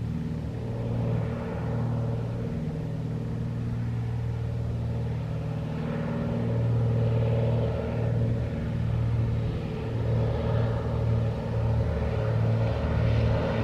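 Aircraft engine running with a steady hum, growing louder toward the end.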